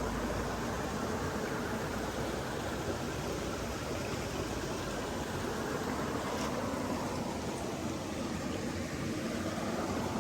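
Steady, even rush of flowing water, with a faint click about six and a half seconds in.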